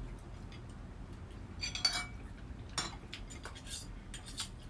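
Eating utensils clicking and clinking against dishes during a meal: a few separate short knocks, one of them with a brief ring, over a low steady room hum.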